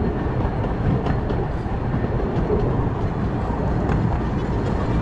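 Miniature 15-inch-gauge steam train running along its track: a steady low rumble of wheels on rail with faint scattered clicks.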